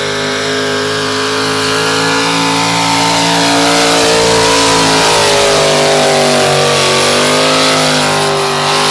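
Modified pulling truck's alcohol-burning engine at full throttle under load as it drags the sled down the track. It holds a steady high pitch, which wavers and sags a little in the second half.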